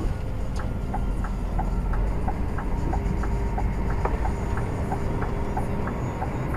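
A truck's turn-signal indicator relay ticking steadily in the cab, in an alternating tick-tock about three clicks a second, stopping near the end. Under it is the steady low drone of the truck's engine and road noise.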